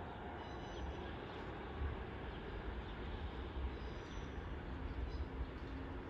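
Low, uneven rumble of a Class 150 diesel multiple unit approaching in the distance, with birds chirping a few times above it.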